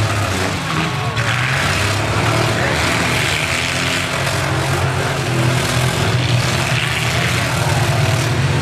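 Several demolition-derby cars' engines running steadily, with a hiss over the top and faint crowd voices.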